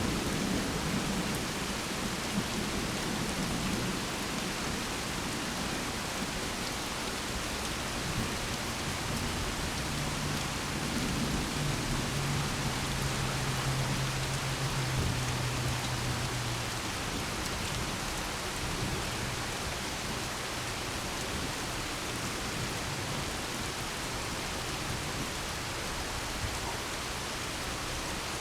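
Steady rain falling during a thunderstorm, with a thunder rumble fading out at the start and a low steady rumble for several seconds in the middle.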